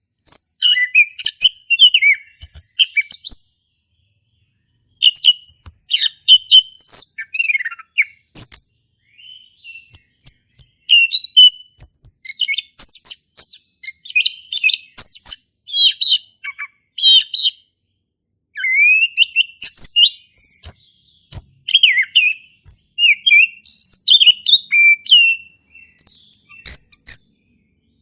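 Male chestnut-capped thrush singing a long, varied song of rapid whistled and chirping phrases, broken by a few short pauses.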